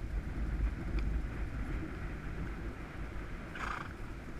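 A horse gives one short snort through its nostrils about three and a half seconds in, over a steady low rumble of wind on the microphone.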